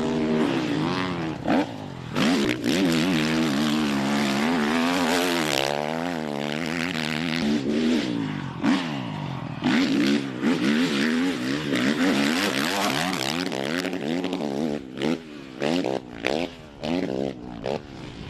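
Motocross bike engine revving hard, rising and falling in pitch again and again as it is ridden through the gears; in the last few seconds it comes in short throttle blips.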